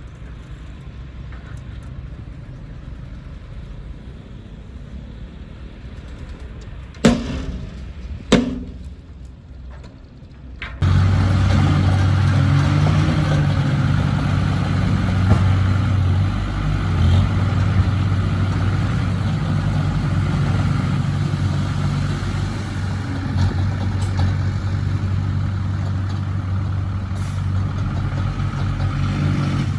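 Diesel engine of heavy earthmoving machinery running, with two sharp bangs about seven and eight seconds in. About eleven seconds in the engine is suddenly much louder and closer, then runs steadily at an even pitch.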